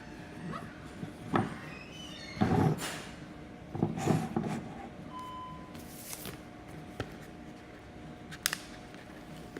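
Wooden kit pieces being handled and knocked together by hand while a side panel of a wooden toy monster truck is fitted: a few irregular clunks in the first half, then a couple of sharp clicks near the end, over a faint steady hum.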